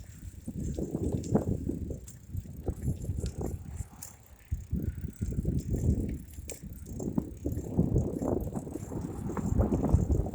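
Bicycle being ridden: a low rumbling noise that swells and fades every second or two, with scattered clicks and rattles.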